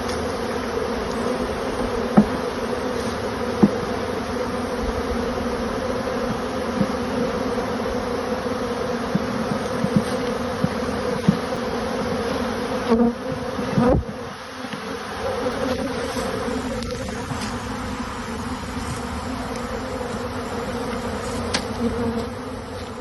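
Dense, steady buzzing of a honey bee swarm around a hive box. A few light knocks sound over it, and a louder thump comes about halfway through, after which the hum briefly dips.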